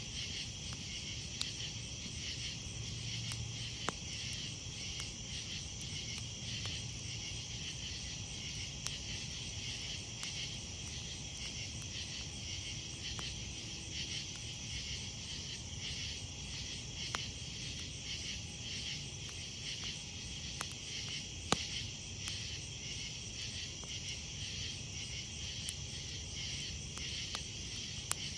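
A night chorus of insects chirping in a steady, rapidly pulsing trill, over a wood campfire with occasional sharp crackles and pops; the loudest pop comes about two-thirds of the way through.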